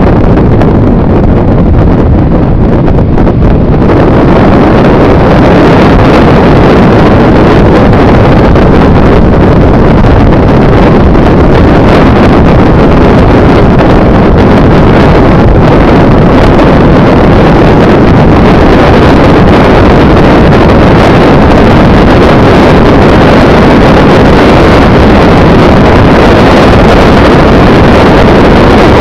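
Loud, steady rumbling noise of a moving vehicle with wind buffeting the microphone, recorded so hot that it stays pinned near full level.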